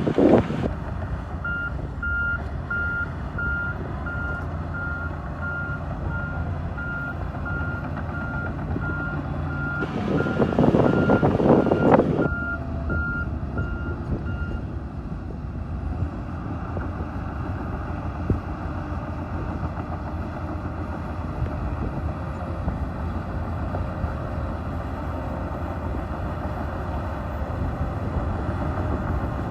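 Bulldozer's reversing alarm beeping about twice a second for some thirteen seconds over the steady rumble of its engine. The engine grows louder for about two seconds partway through, then settles back to a steady run.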